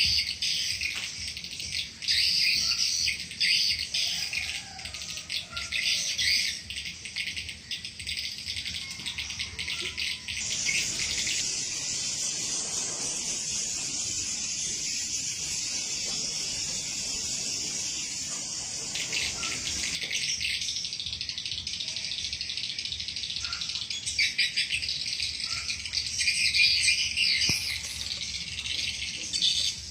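Swiftlet twittering from a swiftlet call-and-lure sound (suara panggil and tarik walet): dense, rapid high chirps running on without pause. The chirps blend into a steadier, unbroken stretch in the middle.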